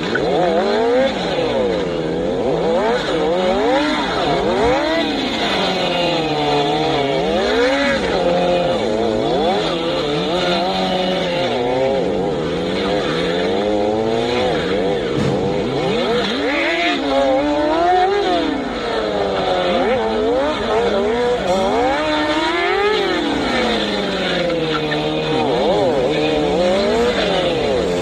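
Sportbike engine revving up and down over and over, its pitch rising and falling every second or two.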